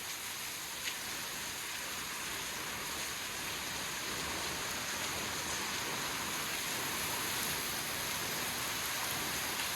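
Steady hiss of falling and splashing water from a waterfall in a river gorge, with one short tap about a second in.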